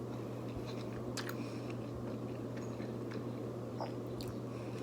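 Close-miked chewing: scattered soft mouth clicks and wet smacks of someone eating. A steady low hum from an overhead fan runs underneath.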